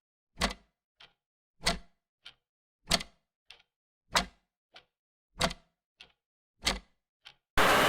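Clock ticking in an even tick-tock: a louder tick about every one and a quarter seconds, with a softer tock between each pair. Just before the end a loud burst of hiss cuts in.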